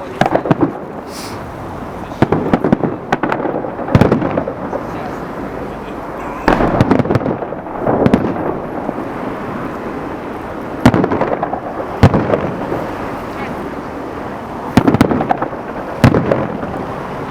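Fireworks salute: a string of loud bangs from bursting shells, one every one to two seconds, over a steady background rumble.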